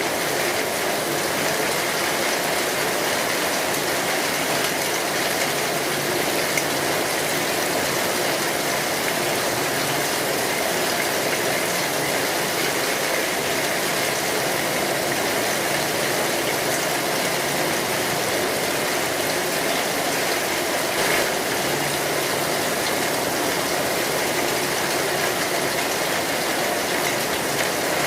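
Steady heavy rain drumming on a metal roof, with the crackle of a wood fire and one sharper pop about two thirds of the way through.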